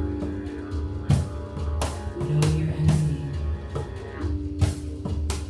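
Live band music without vocals: a drum kit beats steadily under held bass and guitar notes.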